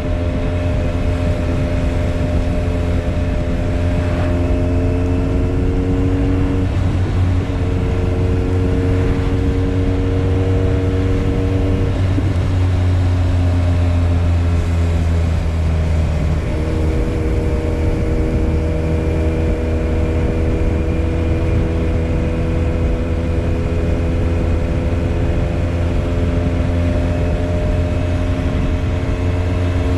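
Motorcycle engine running steadily on the move, with a constant low rumble under it. The engine note shifts in pitch a few times.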